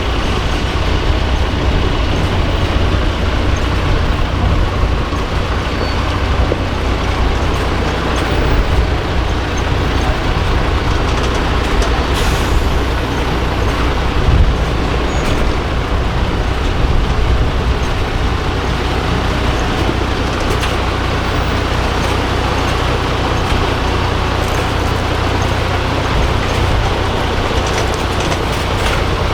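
Diesel engine of a 6x6 MAN off-road truck running steadily, with a deep low note and a brief louder moment about halfway through.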